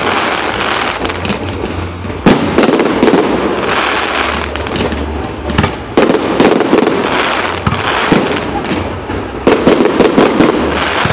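Firework display: loud bangs of shells bursting, three in turn about every three to four seconds, with crackling and popping in between.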